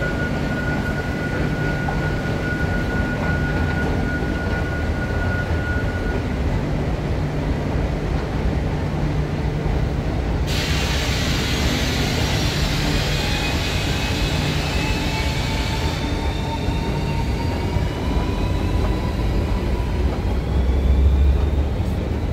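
Underground train running through the station with a steady low rumble. A thin whine holds for the first few seconds, a rush of hiss comes in from about ten to sixteen seconds in, and a faint rising whine follows.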